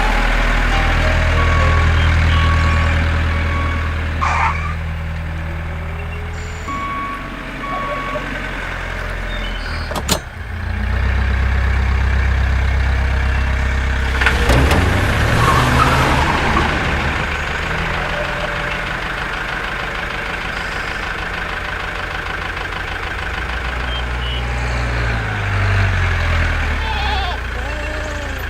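Miniature DIY model tractor running with a steady low engine hum that steps up and down in pitch, with short reversing beeps early on and a sharp click about ten seconds in.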